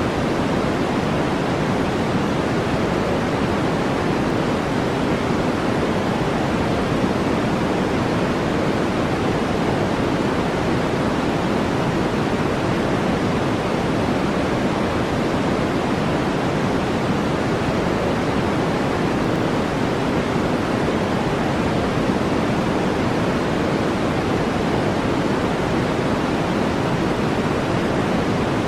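Steady generated brown noise: a deep, even hiss, strongest in the low-mids, that never changes.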